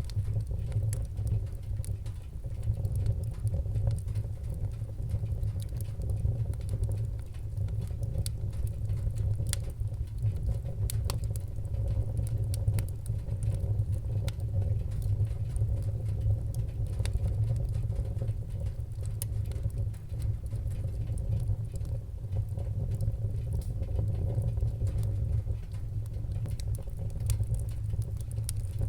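Wood fire crackling in a fireplace, with many small sharp pops scattered irregularly over a steady low rumble.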